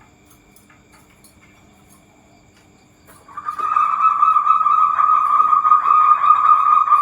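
Zebra dove (perkutut) calling: after a faint start, a loud, steady, rolling call begins just over three seconds in and carries on without a break.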